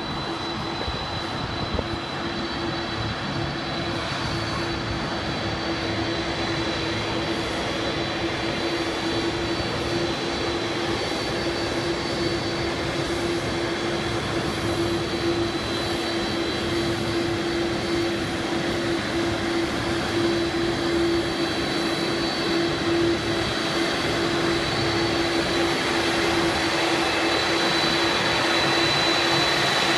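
Jet engines of Air Force One, a Boeing 747 (VC-25A), running with a steady whine over a rushing noise, growing gradually louder.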